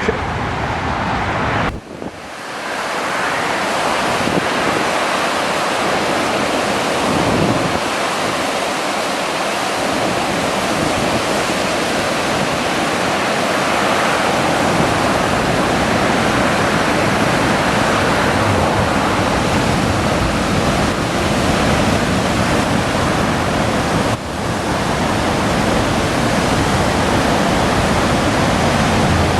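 Waterfall rushing steadily, an even roar of falling water, with a short dip about two seconds in.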